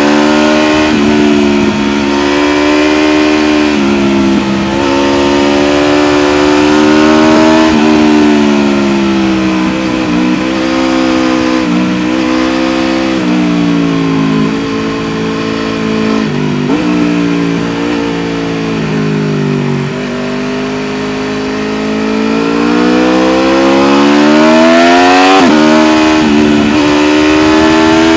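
Aprilia RSV4 1100 Factory's V4 engine heard on board, repeatedly accelerating with its pitch climbing and then dropping sharply at each upshift, and easing off in between as the revs sink before it pulls hard again.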